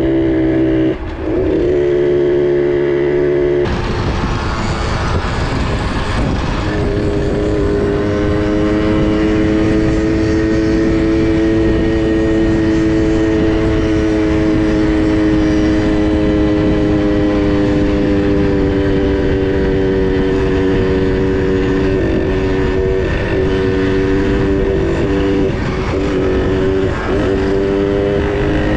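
Small two-stroke minibike engine running at a steady pitch while riding. A steady rushing noise comes in about four seconds in, and the engine pitch dips briefly a few times near the end as the throttle eases.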